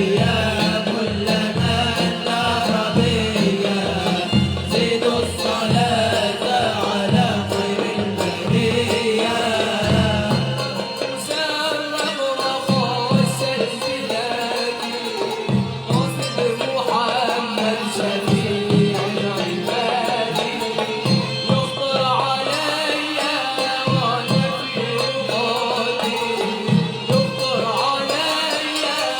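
Live malouf music: voices singing over a steady beat of hand drums. About ten seconds in, the deepest drum strokes drop out while the beat goes on.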